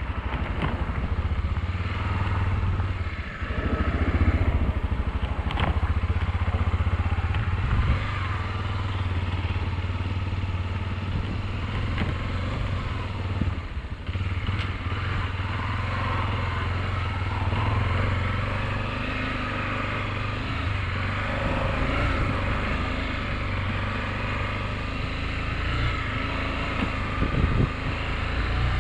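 Motorcycle engine running steadily while the bike is ridden, with the low engine note dipping and picking up again about three to four seconds in.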